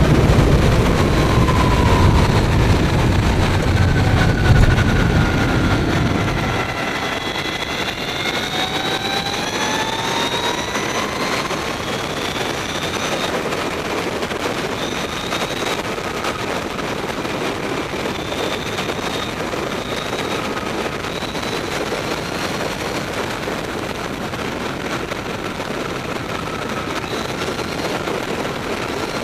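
Mavizen TTX02 electric motorcycle at speed, its motor whine gliding up and down in pitch as the bike speeds up and slows, over a steady rush of wind. A heavy low rumble fills the first six seconds and then drops away.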